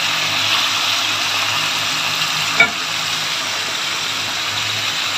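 Mutton curry sizzling steadily as it fries in its own released ghee in a steel pot, the sign that its cooking liquid is almost dried off. One brief knock about halfway through.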